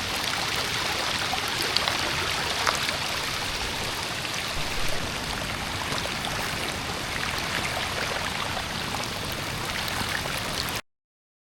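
Storm runoff rushing down a gravel driveway in a steady stream, washing it out, with small splashes through it. It cuts off abruptly near the end.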